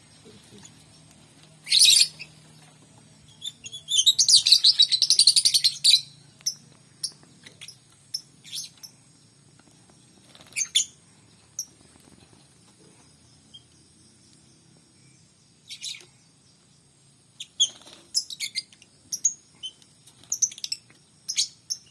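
A songbird singing in short bursts of high chirps, with a rapid two-second trill about four seconds in and a quick run of chirps near the end.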